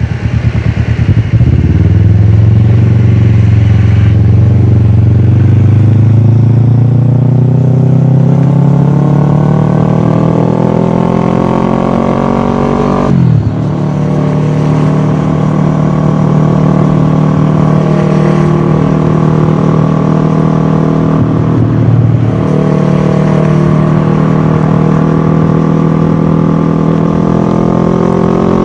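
Kawasaki ER-6f's parallel-twin engine through a full Akrapovic exhaust, heard from on the bike while riding. The engine pulls with its pitch climbing steadily for about twelve seconds, drops sharply at an upshift, then holds a steady cruise, with a brief throttle roll-off about three-quarters through and another drop in pitch at the very end.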